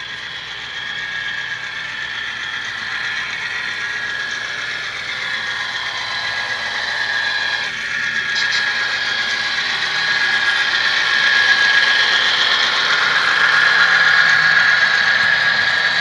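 HO-scale model train running on track: a steady whine of the locomotive's motor and gears, with the wheels squealing and rattling on the rails. It grows steadily louder as the train approaches.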